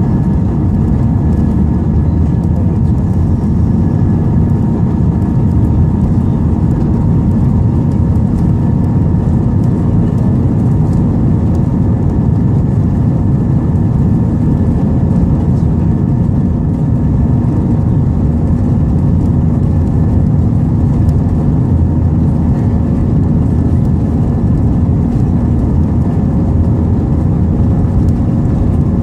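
Inside the cabin of an Airbus A320, its jet engines are running, heard as a loud, steady rumble with a few steady hum tones in it.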